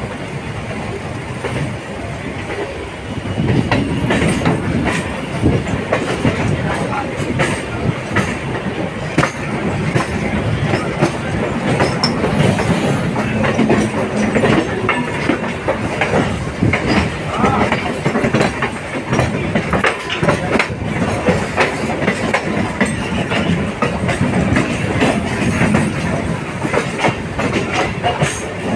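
Eastern Railway EMU local train running past close by: a steady rumble of coaches with rapid clicks of wheels over rail joints, growing louder about three and a half seconds in.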